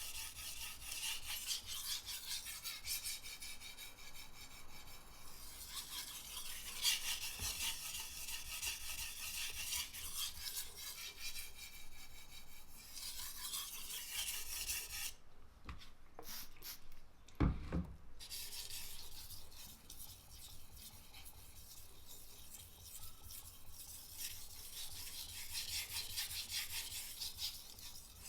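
A knife blade scraping back and forth on a whetstone in repeated sharpening strokes. The strokes stop for about three seconds a little past halfway, with a single low knock in the pause, then go on.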